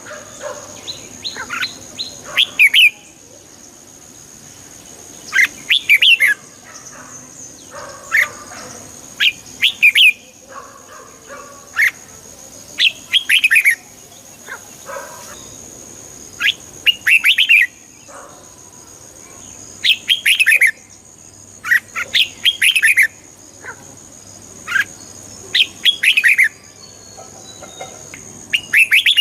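Red-whiskered bulbul singing: short, loud phrases of quick chirping notes, repeated every one to three seconds, over a steady high-pitched tone.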